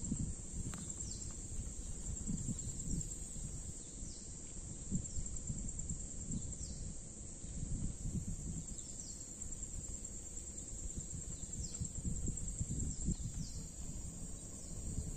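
Rural outdoor ambience: a steady high-pitched insect drone, with a bird giving short falling chirps every second or two, over an irregular low rumble.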